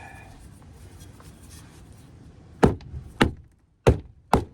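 Four hammer blows in quick succession, about two a second, beginning about two and a half seconds in, struck while beating the jammed door of a truck back into shape.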